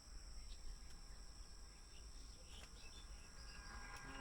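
Faint outdoor ambience of insects keeping up a steady high-pitched trill, over a low rumble.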